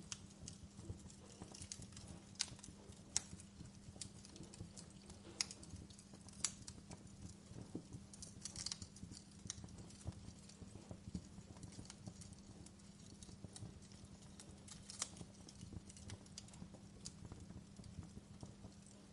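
Burning wood crackling in a fireplace: irregular sharp pops and snaps, a few louder than the rest, over a low steady rumble with a faint hum.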